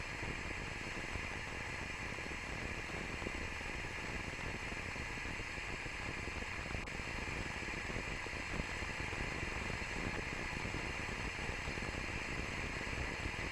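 Steady hiss of static from an open mission-control audio loop, with a faint low rumble underneath.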